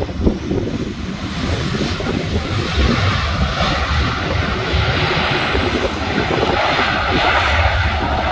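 Jet airliner passing overhead on its landing approach, its engine noise swelling over the first few seconds and then holding loud, with wind buffeting the microphone.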